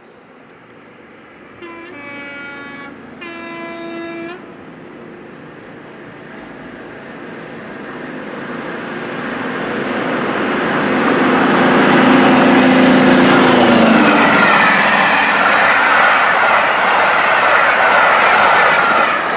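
A train sounds its horn in two short blasts, then approaches and passes at speed with a rising rush of wheel and rail noise. Its steady hum drops in pitch as it goes by, about 14 seconds in.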